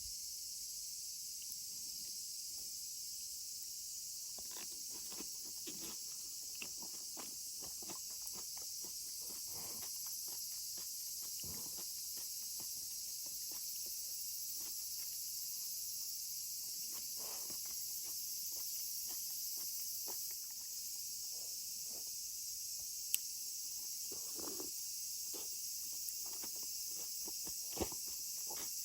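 A steady, high-pitched chorus of summer insects, with irregular rustling and light footstep-like scuffs coming and going over it and a couple of sharp clicks near the end.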